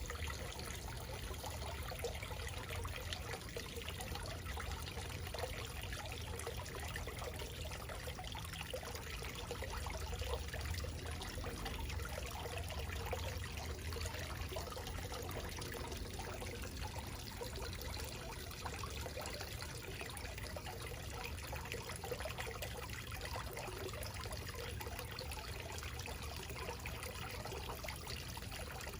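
Small backyard waterfall: water splashing and trickling over rocks in a steady, even flow.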